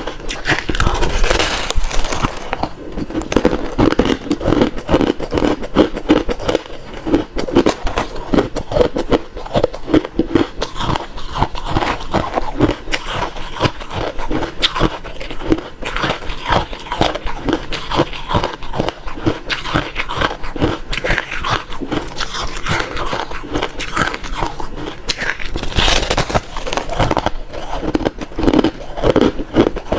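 Close-miked chewing of refrozen crushed ice: a dense, continuous run of rapid, crunchy bites and crackles.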